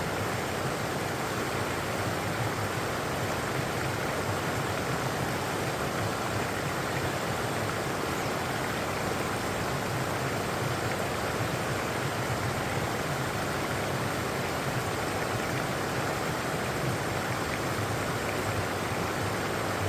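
Running water rushing steadily, an even noise with no separate splashes or other events.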